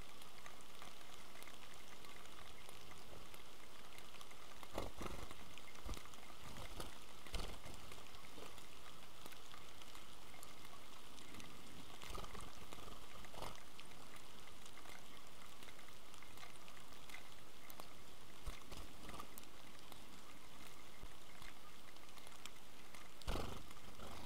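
Steady rain falling, an even hiss of drops on wet stone and leaves, with a few short knocks scattered through it.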